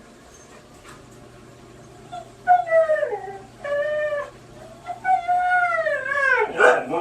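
A dog howling: after a quiet start, three drawn-out calls about two and a half seconds in, the last one the longest and sliding down in pitch.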